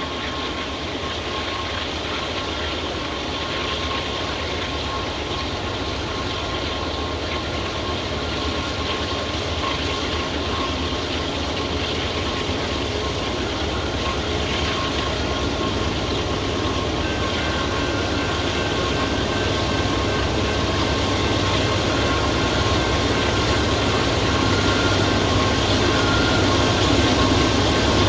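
A diesel-hauled train approaching on the rails, its engine hum and rail rumble growing steadily louder, with a few thin steady high tones above the rumble.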